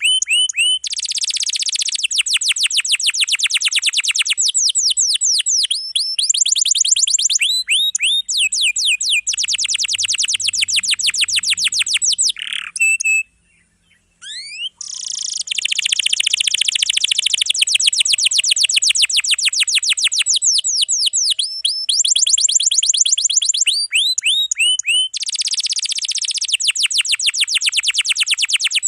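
Domestic canary singing long rolls: fast trains of repeated high notes, changing phrase every few seconds, with a short break about halfway through.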